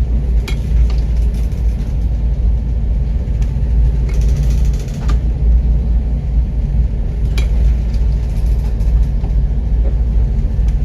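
Loud, steady low rumble, with a few faint clicks over it.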